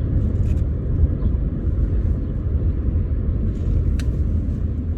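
Steady low rumble of a car's engine and tyres heard from inside the cabin while it is driven, with one faint click about four seconds in.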